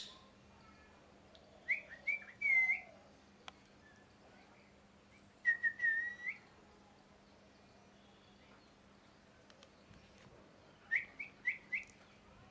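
Ringneck parakeet giving short, high chirps in three small groups, about two, six and eleven seconds in, each note sliding up in pitch.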